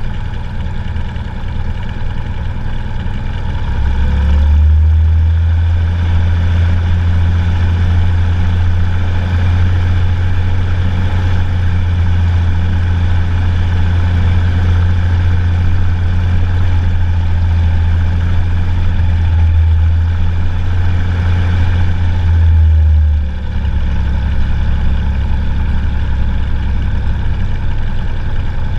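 Cessna 182's single piston engine running steadily. A stronger, deeper drone comes in about four seconds in and drops back about twenty-three seconds in.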